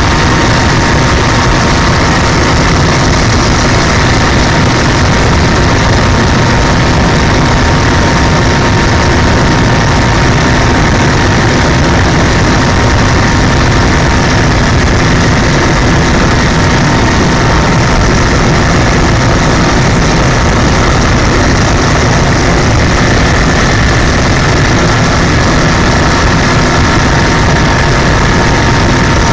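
Helicopter in flight: a loud, unchanging drone of engine and rotor noise with a constant whining tone on top.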